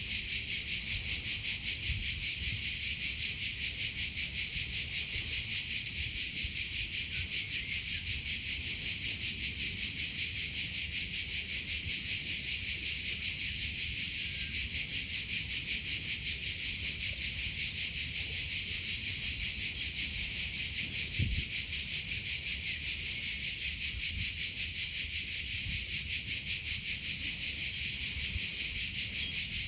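Crickets chirping in a steady, high, fast-pulsing trill that never breaks.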